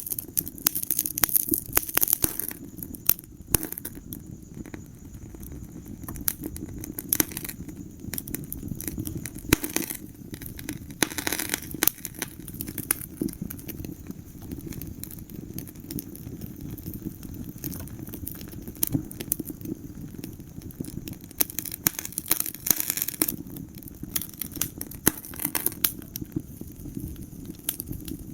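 Wood fire crackling in a fireplace: a steady low rumble of the flames with frequent sharp pops and snaps. The pops come in denser flurries near the start, around the middle and again about three-quarters of the way through.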